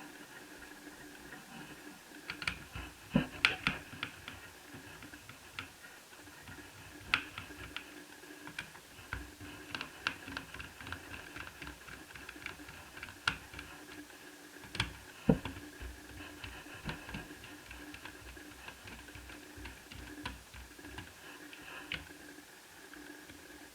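Scattered light clicks and taps of small laptop parts and tools being handled while a netbook is taken apart, here while its Wi-Fi card is removed, over a faint steady hum.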